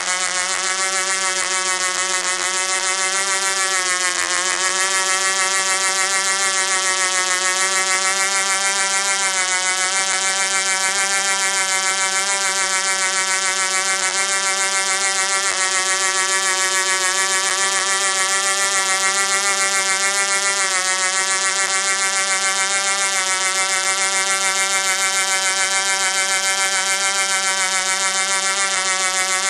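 Du-Bro Whirlybird 505 model helicopter's two-stroke glow engine running steadily at speed, a high buzzing tone whose pitch sags briefly about four seconds in before holding steady again.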